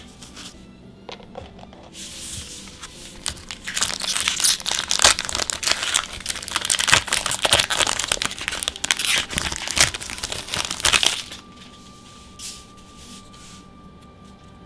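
Foil wrapper of a trading-card booster pack being crinkled and torn open: a dense run of crackling from about four seconds in until about eleven seconds, then it stops.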